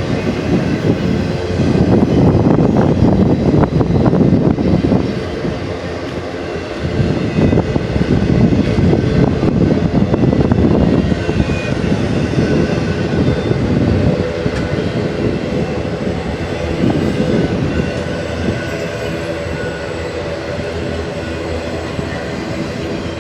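Intermodal freight cars of a BNSF train rolling past at speed: a steady rumble with rapid clattering of wheels over the rails, the loudness swelling and dipping as the cars go by, with faint high wheel squeal.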